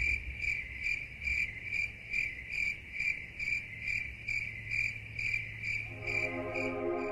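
A cricket chirping steadily, about two and a half short high-pitched chirps a second. Soft sustained ambient synthesizer music comes in near the end.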